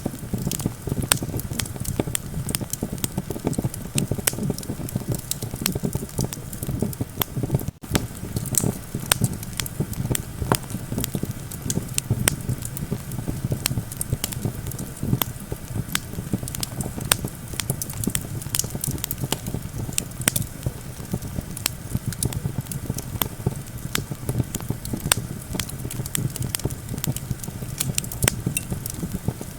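Wood campfire burning, with dense, irregular sharp crackles and pops over a steady low rumble of wind.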